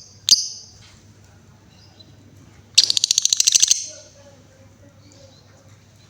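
Female lovebird calling: a short sharp chirp just after the start, then a rapid ticking trill of closely spaced notes lasting about a second, the 'ngetik' chatter that lovebird keepers prize.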